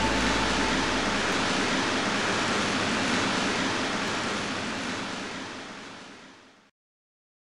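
Recorded ocean surf, a steady rushing wash of waves, fading out to silence near the end. The last held note of the music dies away in the first second.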